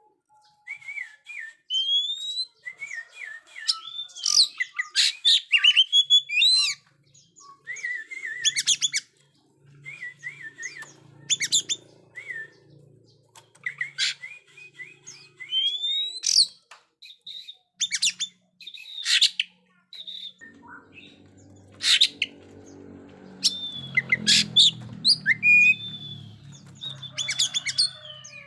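Oriental magpie-robin (kacer) singing loud and hard in an agitated display, a varied run of whistled phrases, rising and falling notes, rapid chirps and sharp clicks broken by short pauses. A faint low hum sits underneath in places.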